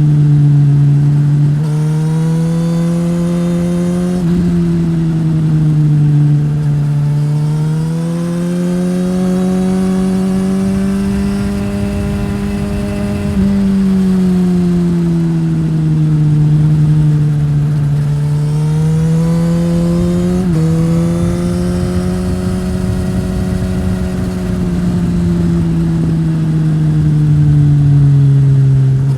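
2015 Suzuki GSX-S1000's inline-four engine through a Yoshimura R-11 slip-on exhaust, running under way. Its pitch rises and falls slowly as the throttle opens and closes, with a few sudden steps in pitch that look like gear changes.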